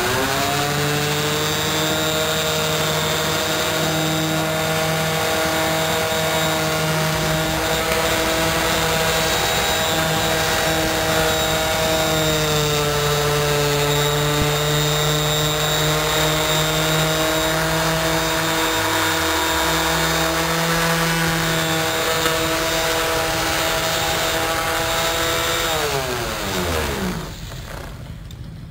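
Electric random orbital finishing sander polishing a chrome motorcycle exhaust pipe with a cloth pad and chrome-polish paste. It spins up at once, runs with a steady whine that drops slightly in pitch about halfway, and winds down with a falling pitch near the end.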